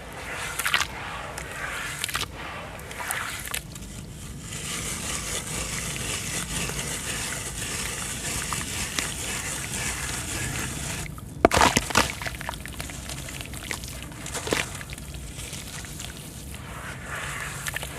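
Sand-cement crumbling in water: sharp crunching crackles, then a steady hiss for several seconds, and the loudest burst of crunches just past halfway, with a few more after.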